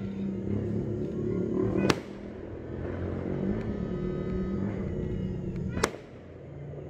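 Aerial fireworks shells bursting: two sharp bangs about four seconds apart, over a steady low hum.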